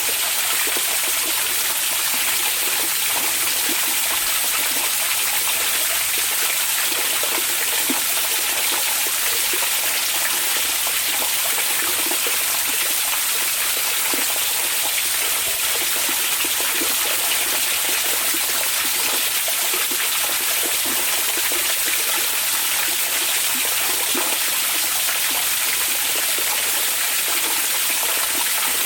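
Onsen hot-spring water running steadily: an even, unbroken rush with small gurgling flickers in it.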